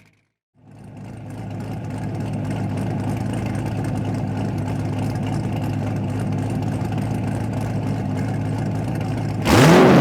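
Cammed Corvette C6 Z06's 7.0-litre LS7 V8, breathing through Kooks headers and a catted X-pipe, idling steadily after fading in from a brief gap. Near the end it is revved hard, the pitch climbing sharply and the level jumping.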